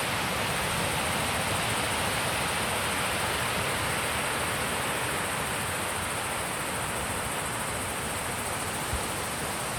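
Wind blowing steadily, an even rushing noise with a low rumble beneath it and a light low buffet on the microphone near the end.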